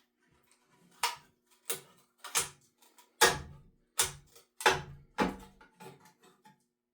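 A series of about a dozen sharp metal knocks and clanks at uneven intervals, a few heavier ones with a dull thud in the middle, over a faint steady hum.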